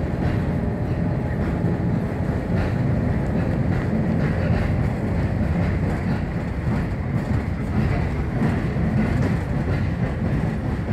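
Railcar running along the track, heard from inside: a steady rumble of the running gear and wheels on the rails, with faint rhythmic clicks from the rail joints.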